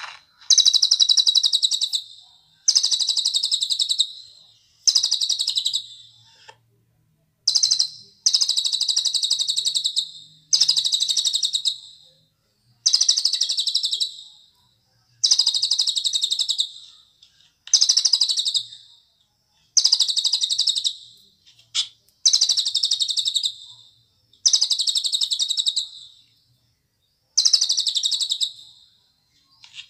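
Cililin bird singing: a run of fast, buzzy, high trilled phrases, each about a second and a half long, repeated every two seconds or so with short pauses between.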